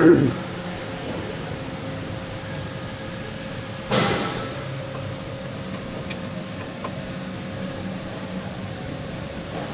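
Steady workshop hum with a constant tone, broken by two short loud knocks about four seconds apart, the second a ringing clank typical of tools or brake parts being handled.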